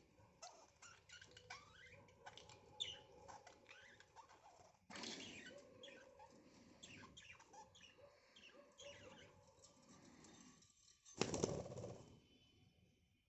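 Pet budgerigars chirping in many short calls, with a brief, louder rustling burst near the end.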